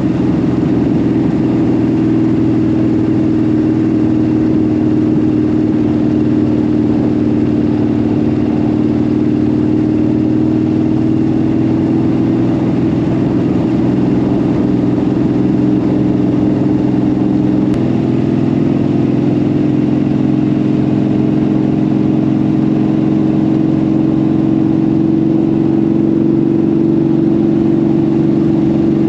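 Motorcycle engine running steadily while riding, its note drifting slowly and stepping slightly about eighteen seconds in.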